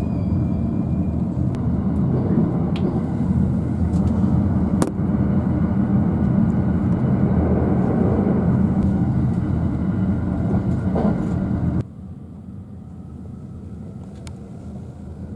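Running noise of a commuter train heard from inside a passenger car: a steady, loud rumble of wheels on the rails. About twelve seconds in it cuts abruptly to a quieter ride.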